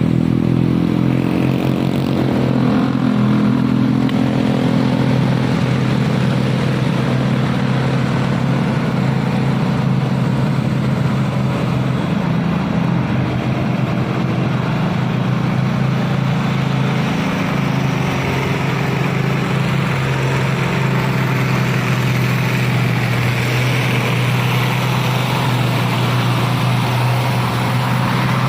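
Isuzu long-chassis truck's diesel engine running steadily under load, a low even drone that dips briefly in pitch twice.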